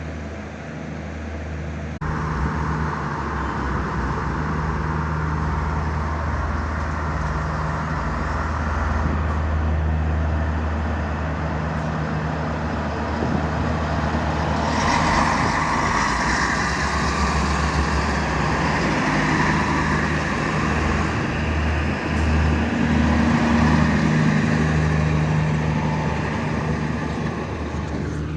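X 72500 diesel multiple unit's engines running. The sound steps up suddenly about two seconds in, then grows fuller and louder about halfway through as the engines are throttled up for departure.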